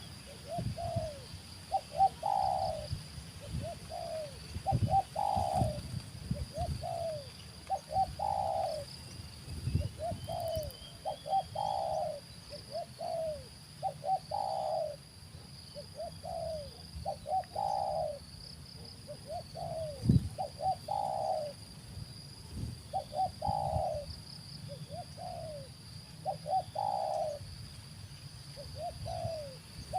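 Spotted dove cooing over and over: each phrase is a few short notes ending in a longer rising-and-falling coo, repeated roughly every two to three seconds. Low knocks and rumbles sit underneath.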